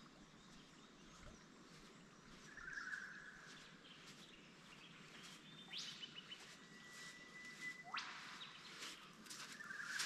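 Bush birds calling over a faint steady hiss. There is a short buzzy call about two and a half seconds in, then a quick rising sweep, then a long whistled note that ends in a sharp upward whip-like sweep near the end, followed by a few short notes.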